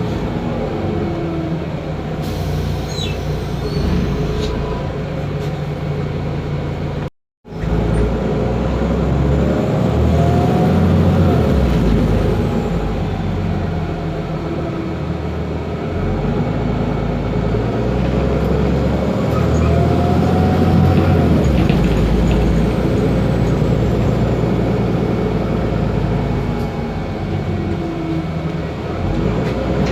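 Otokar Kent LF city bus's Ford Ecotorq diesel engine running under way, with a faint whine from the Voith DIWA automatic transmission rising and falling in pitch several times. The sound cuts out completely for a moment about seven seconds in.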